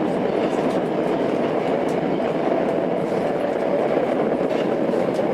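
Running sound of a Tokyo Metro 02 series subway train heard from inside the car: a steady rumble of wheels on rail at speed, with faint scattered clicks.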